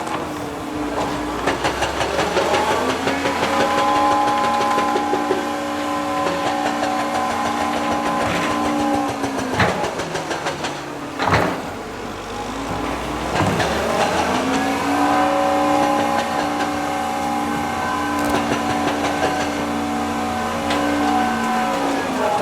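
Heavy construction machine's engine revving up under load, holding steady, then dropping back, twice over, with a single sharp knock between the two rises.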